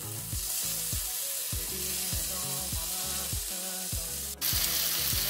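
Marinated chicken pieces on skewers sizzling in hot oil on a tawa as they are laid in, over background music with a steady beat. The sizzle jumps suddenly louder about four seconds in.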